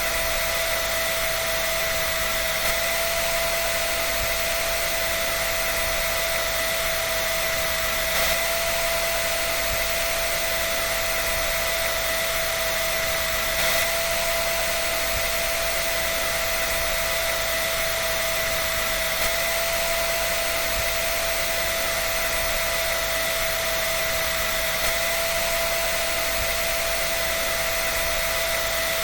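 A dryer running continuously: a steady rush of air with a constant motor whine, unchanging throughout.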